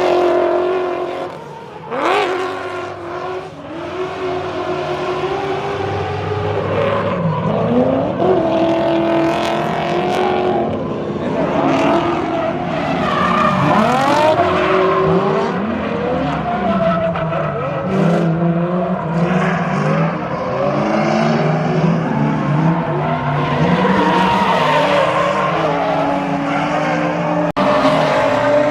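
Drift cars' engines revving hard up and down over and over, with tyres squealing.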